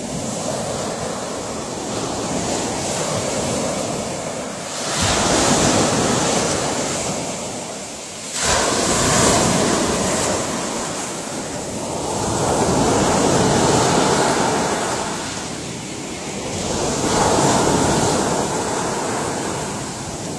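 Ocean surf: waves breaking in slow, washing surges about every four seconds, one of them coming in suddenly about eight seconds in.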